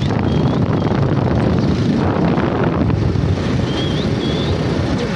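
Wind buffeting the microphone on a moving motorbike, over the bike's running engine, with a few faint, short high chirps.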